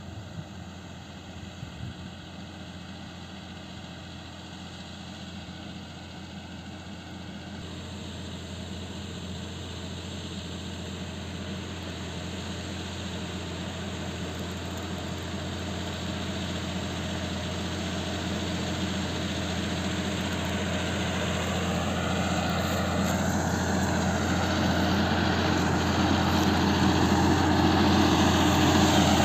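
Claas Arion 620 tractor engine running steadily under load while pulling a plough, growing louder throughout as the tractor comes closer.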